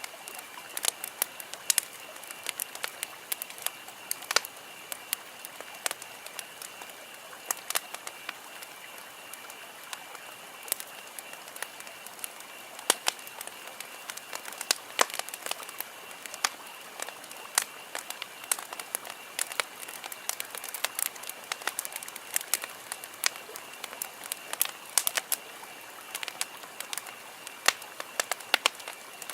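Wood campfire crackling, with irregular sharp pops and snaps several times a second over a soft steady hiss. A faint steady high-pitched tone runs underneath.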